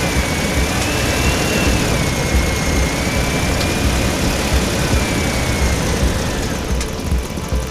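A steady engine-like running noise with a fluttering low rumble, and a thin high whine that wavers slowly up and down before fading out near the end.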